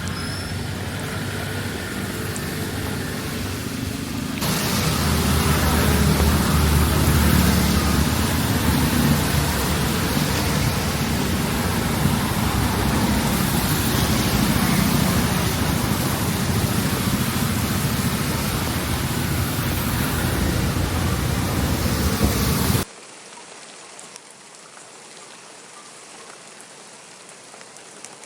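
Steady rain falling, which grows louder and heavier about four seconds in. Near the end it drops off suddenly to a much quieter, lighter patter.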